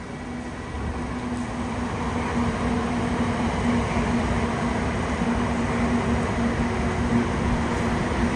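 Shinkansen bullet train running through the station: a rushing noise that builds over the first two or three seconds and then holds steady, with a low steady hum underneath.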